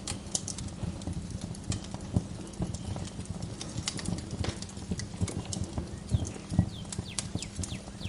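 Wood fire crackling, with irregular sharp pops and low knocks. A bird gives a few short falling chirps near the end.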